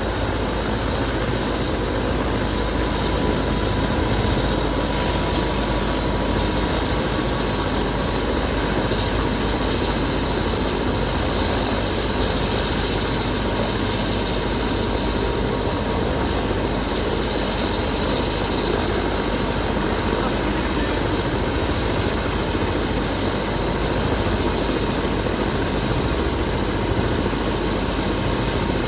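Helicopter running, a steady wash of rotor and turbine noise with a faint steady whine above it.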